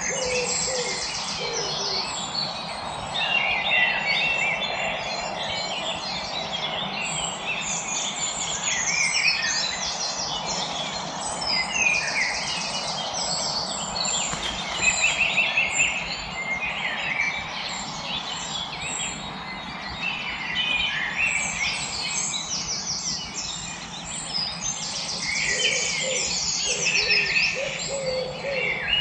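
A dense chorus of many songbirds singing at once: overlapping high chirps, trills and whistles, with a few low repeated calls near the start and again near the end.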